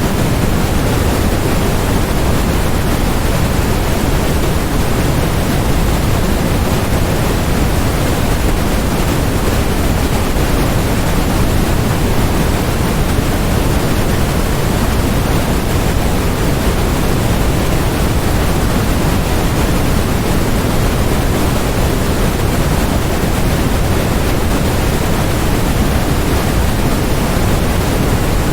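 Steady, electronically generated noise of the kind sold as white noise: an even, unchanging hiss with more weight in the deep end than the high end.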